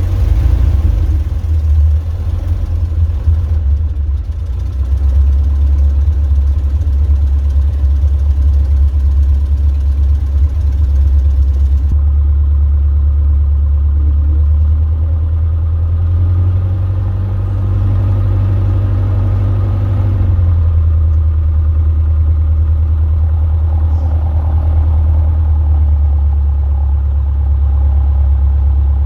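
Robin DR400 light aircraft's piston engine running at low power while taxiing, a steady low drone that rises slightly for a few seconds a little past halfway, then settles back.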